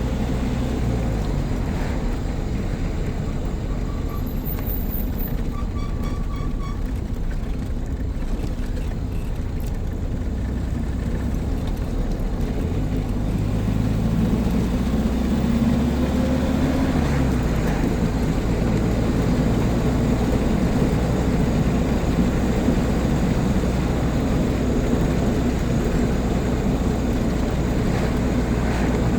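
Car engine and road noise heard from inside the cabin while driving, a steady low drone; about halfway through the engine note climbs and then drops.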